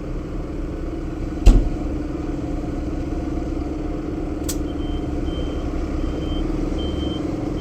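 Tractor engine running steadily, with one loud thump about a second and a half in. About two-thirds of the way through, a warning beeper starts, giving short high beeps about every 0.6 seconds.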